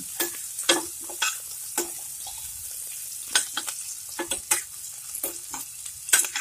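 Chopped onion, garlic and green chilli sizzling in oil and butter in a stainless steel pan, sautéed toward light brown. A steel spoon stirs them, scraping and clicking against the pan in irregular strokes, loudest near the end.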